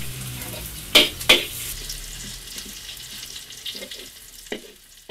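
Food sizzling as it is stir-fried in a pan, with two sharp knocks about a second in and a few lighter clicks later. The sizzle fades toward the end.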